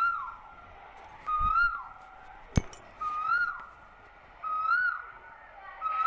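A bird calling over and over, about once every second and a half. Each call is a short held note that rises a little, then drops away. A single sharp click comes a little before the middle.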